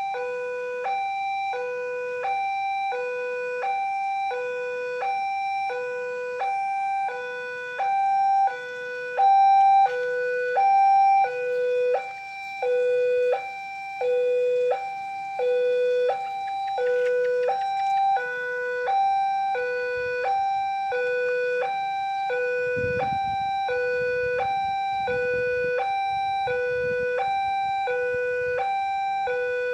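Railway level-crossing warning alarm sounding its two alternating tones, low and high, about one pair a second, warning that a train is coming. It is louder for a few seconds about a third of the way in, and a low rumble joins it about two-thirds of the way through.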